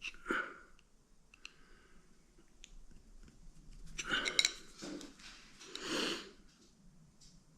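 Faint scattered clicks and handling noises of small parts being worked by hand. There are two louder bursts of rough, breathy noise about four and six seconds in.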